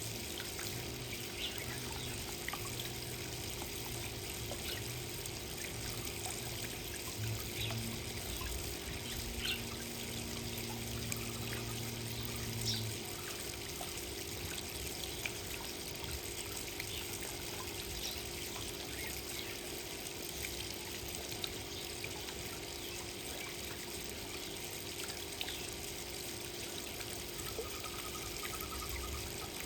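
Steady trickle of running water, with scattered faint short ticks. A low hum runs beneath it and stops about halfway through.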